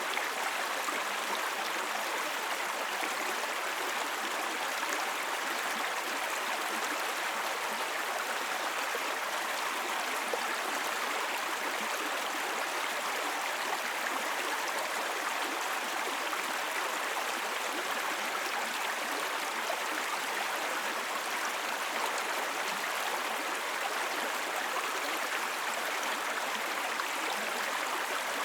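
Small brook babbling steadily, shallow water running over stones in an even, unbroken rush.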